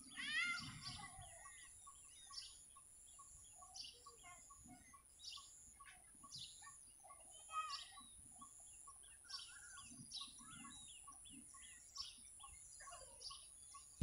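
Several birds chirping and calling, opening with one louder warbling call, over a fast, even series of short repeated notes and a steady high whine.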